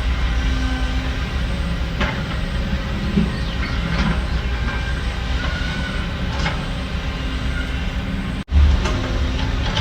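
Heavy diesel earthmoving machinery running steadily with a deep rumble and occasional metallic clanks. Near the end the sound briefly cuts out, then comes back with a thump.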